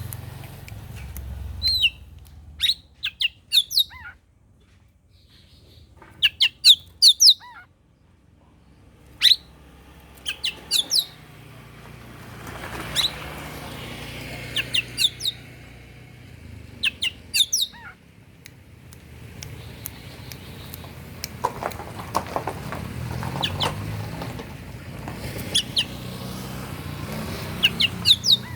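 Oriental magpie-robin (kacer) singing: clusters of short, sharp, high notes that sweep downward, coming in bursts a second or two apart with a few longer pauses, over a steady low rumble.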